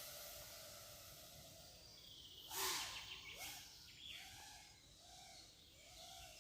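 FPV drone's motors and propellers at low throttle, a faint whine that rises and falls in small swells, with a brief louder rush about two and a half seconds in.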